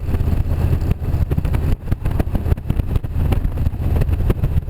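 Motorcycle engine running steadily while riding, with gusty wind noise on the microphone.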